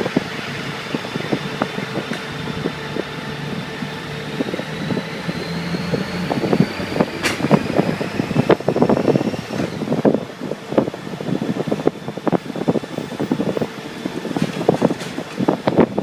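Motorcycle engine running steadily while riding. From about six seconds in, irregular crackling and buffeting on the microphone join it.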